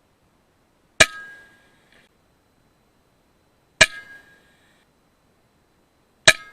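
Three sharp shots from a .22 FX Impact M3 PCP air rifle, about two and a half seconds apart, each with a brief metallic ring after it.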